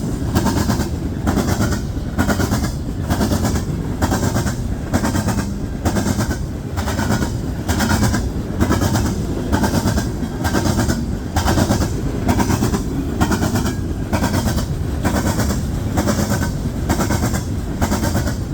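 Coal train's cars rolling past at close range: a continuous rumble with wheels clacking over the rail in a steady rhythm of about two beats a second.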